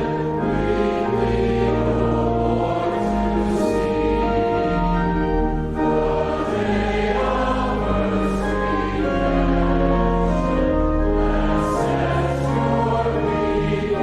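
Church hymn music: long, sustained chords over a deep bass line that moves from note to note, with choir singing.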